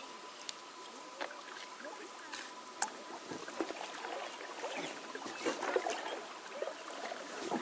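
Kayak paddling on a shallow creek: water splashing and dripping off the paddle blades, with a few sharp light clicks.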